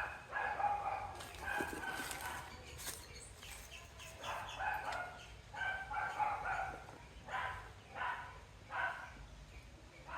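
Birds calling repeatedly in the background: short pitched cries, about one or two a second, with no other activity standing out.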